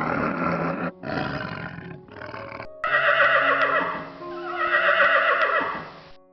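Animal calls in short spliced clips, cutting off abruptly about a second in and again near three seconds.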